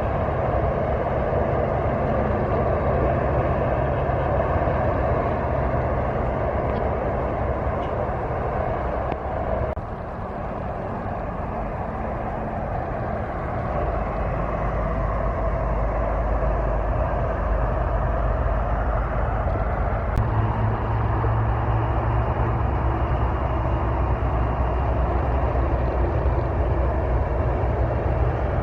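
Heavy truck engine running under way, with a steady low drone and road noise. The sound eases briefly about ten seconds in, and from about fourteen seconds a deeper, stronger engine hum takes over.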